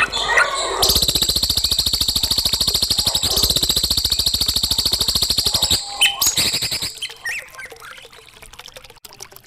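Recorded songbird song played for song training: a few chirps, then a loud, fast rattling trill of about five seconds, followed by scattered quieter chirps.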